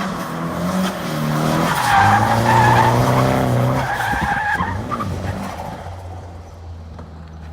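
Car drifting: the engine revs up and down while the tyres squeal, the squeal loudest about two to four seconds in. The engine then drops to a lower, steadier note near the end.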